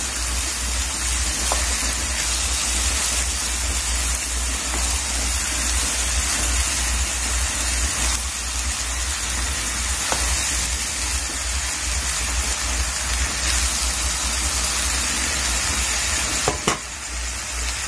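Rice, red lentils and vegetables frying in mustard oil in a kadai, a steady sizzling hiss as a spatula stirs them, with a few faint scrapes of the spatula. A constant low hum runs underneath.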